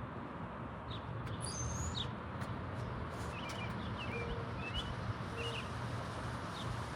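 Small birds chirping in short, high calls over a steady low background hum, with a thin high whistle about a second and a half in and a cluster of quick chirps in the middle.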